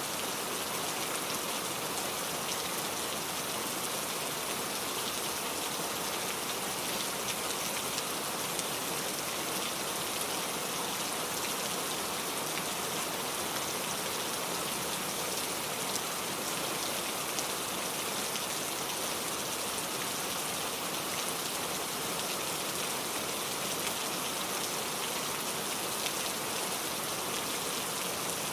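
Steady rainfall, an even hiss of rain on surfaces with many small drop ticks.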